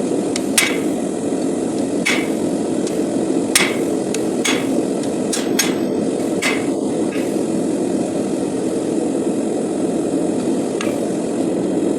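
Hand hammer striking hot SAE 5160 steel bar stock on an anvil while forging a knife: sharp, irregularly spaced blows, most of them in the first seven seconds and one near the end. A steady rushing noise runs underneath.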